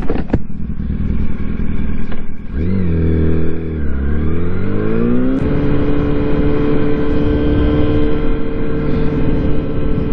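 Yamaha R1 inline-four sport-bike engine pulling away from a stop. Its pitch climbs, drops at an upshift and climbs again, then about five seconds in it settles to a steady cruise with wind noise on the helmet microphone.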